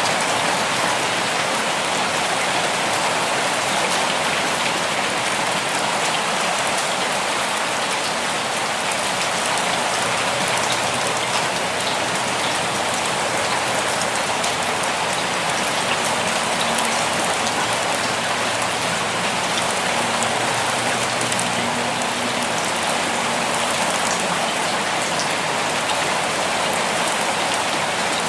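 Steady rainfall: an even, unbroken hiss of many drops hitting surfaces, holding the same level throughout.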